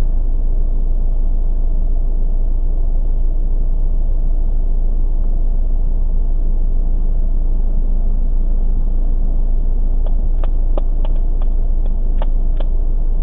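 A car idling in stationary traffic, heard from inside the cabin on a dashcam: a steady low rumble that does not rise or fall. A run of short, light clicks comes near the end.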